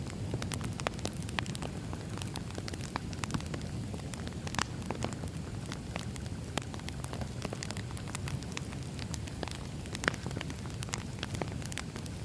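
Crackling campfire: a steady low rumble of burning with irregular sharp pops and snaps, one louder pop about ten seconds in.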